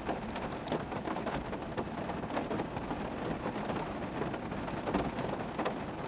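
Heavy rain drumming on a pickup truck's roof, heard from inside the cab: a steady hiss dotted with many small drop taps.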